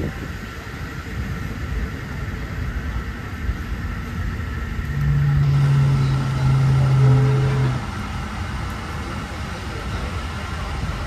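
Passenger train running, heard from inside the carriage: a steady rumble and rush of track and wind noise. A low, steady tone joins for about three seconds in the middle, and the sound is louder while it lasts.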